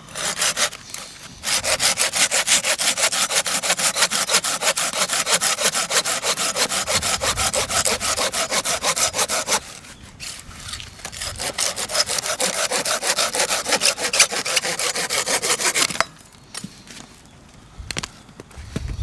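Hand saw cutting through a piece of firewood in quick, even back-and-forth strokes, in two long spells with a short pause in the middle.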